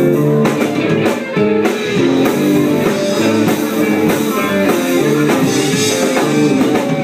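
Live country-rock band playing an instrumental passage: electric guitar over bass and a drum kit, with no singing.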